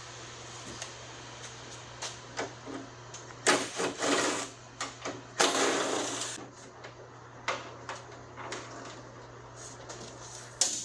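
Hands-on work taking apart an old steel truck door: scattered clicks and knocks of metal parts and tools, with two loud noisy bursts about a second long a few seconds in, over a steady low hum.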